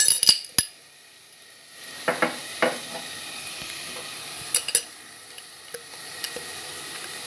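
Chopped tomatoes sizzling as they fry in a metal pot, stirred with a spatula. A few sharp clicks of the spatula against the pot come right at the start. Scraping strokes follow about two seconds in and again past four and a half seconds, over a steady faint sizzle.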